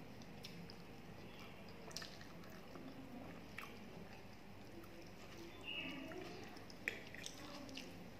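Quiet close-up chewing of rice, with the fingers squishing and stirring watery panta bhat (fermented rice soaked in water) on a steel plate, making small wet clicks and drips.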